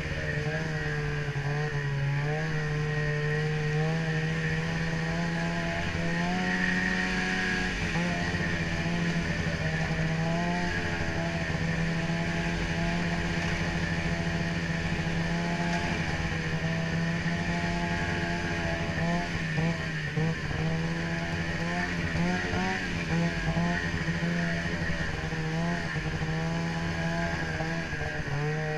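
Ski-Doo snowmobile engine running steadily under way, its pitch rising and falling a little with the throttle.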